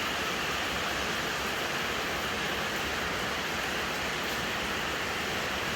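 Rain falling in a steady hiss during a storm downpour.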